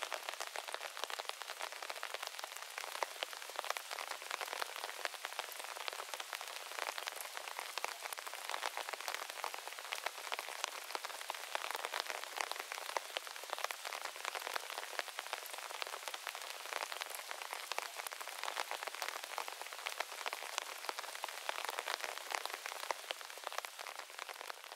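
Steady, heavy rain falling on a moss garden and its trees, a dense patter of countless individual drops. It begins to fade out at the very end.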